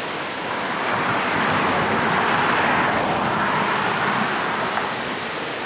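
A vehicle passing on the road: a steady rushing noise that swells over a few seconds in the middle and eases off again.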